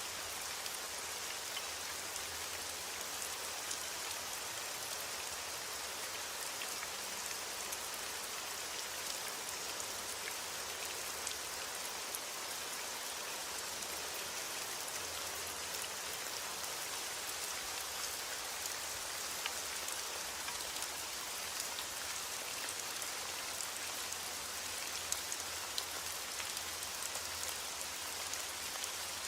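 Steady rain falling, a constant hiss with many small drop ticks and a few sharper drops near the end; no thunder.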